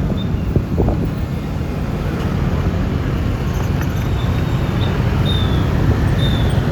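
Wind rushing over the microphone, with road and engine noise from a Yamaha Lexi LX 155 scooter riding steadily. A few short high chirps come at uneven intervals in the second half.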